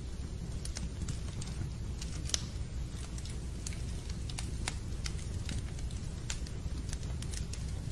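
Wood fire crackling in a fireplace: a steady low rumble with irregular sharp pops and snaps.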